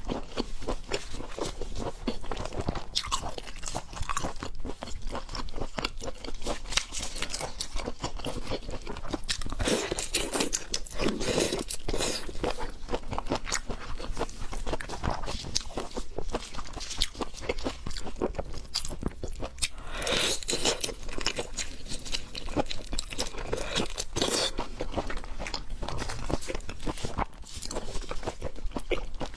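A person chewing and biting seafood close to the microphone: dense, continuous crunching and wet mouth clicks.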